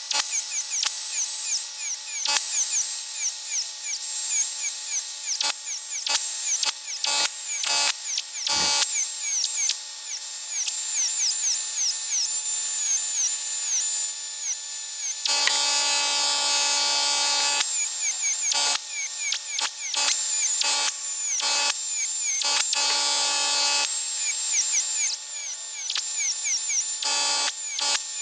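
Small handheld electric rotary power tool running and working against the workpiece. Its high whine dips in pitch again and again as it bears down, then recovers, with a longer rough stretch of steady contact in the middle.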